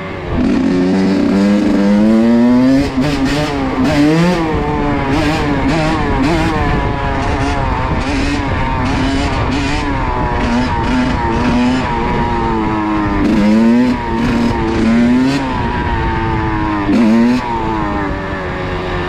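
Kawasaki KX85 two-stroke dirt bike engine revving, its pitch rising and falling repeatedly as the throttle is worked to hold a wheelie.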